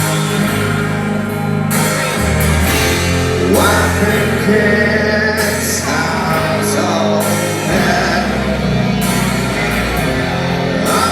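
Rock music with a sung vocal line over guitar, bass and drums; the low bass notes shift every second or two.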